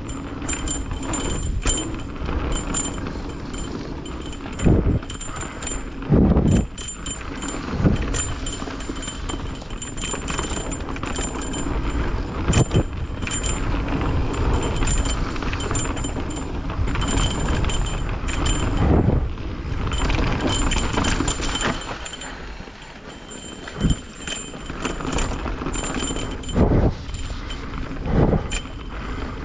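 Mountain bike being ridden down a rough trail: steady tyre and drivetrain rattle with wind noise, and sharp knocks here and there as the wheels hit roots and rocks.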